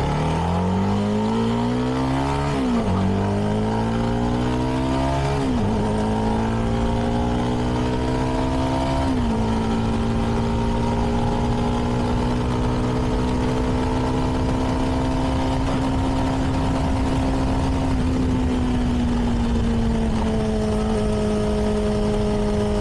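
CFMoto 300NK's single-cylinder engine through its stock exhaust, accelerating hard through three upshifts, about 3, 5.5 and 9 seconds in, each a rising pitch that drops at the shift. It then settles into a steady cruise and eases off slightly near the end, with wind rushing past the helmet.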